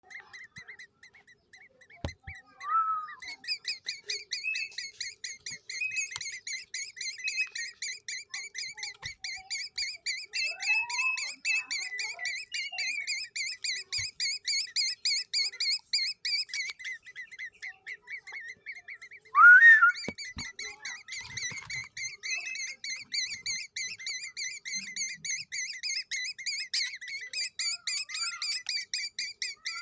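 A young black-naped oriole chick chirping without a break, in rapid short high calls about four a second. About two-thirds of the way in comes one louder, sweeping call.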